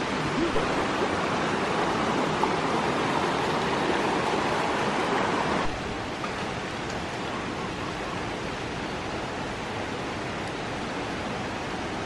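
Steady rush of fast-flowing water from a swollen stream. It is louder for the first half, then drops suddenly to a quieter, even rush.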